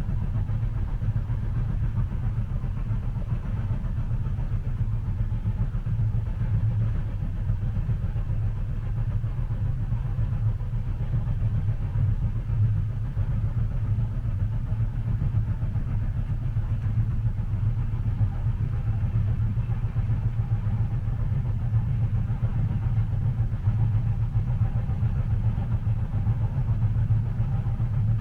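Steady low rumble inside a moving train carriage, even throughout, with no distinct rail clicks.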